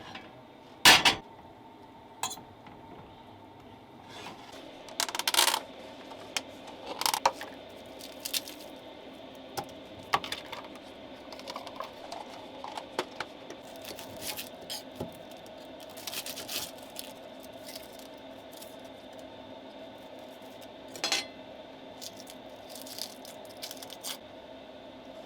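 Pots, pans and cooking utensils clinking and clattering now and then, with the loudest clank about a second in, over a faint steady hum.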